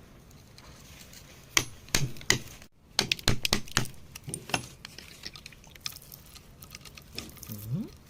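Hand tool tapping and chipping at hard rock to free a mineral specimen. Three separate sharp clinks come first, then a quick cluster of strikes, then lighter scattered ticks.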